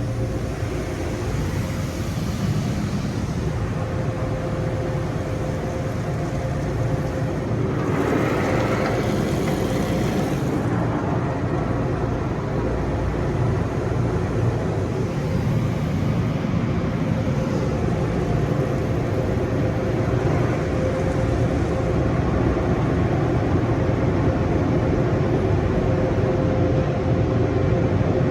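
Automatic car wash equipment running with a steady hum and a constant tone. A louder hissing rush comes about 8 seconds in and lasts a couple of seconds.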